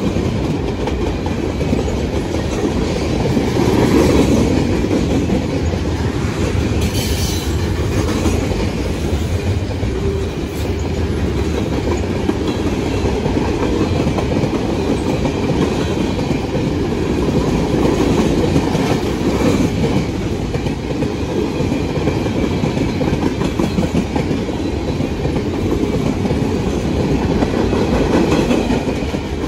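Freight train cars (covered hoppers and tank cars) rolling past: a steady rumble of steel wheels on rail, with clickety-clack over the rail joints.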